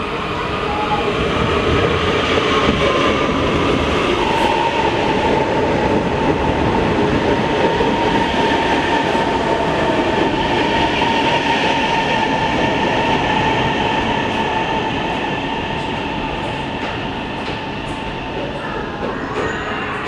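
A passenger train running on rails with a steady whine, louder from about two seconds in and easing off over the last few seconds, with a few light clicks near the end.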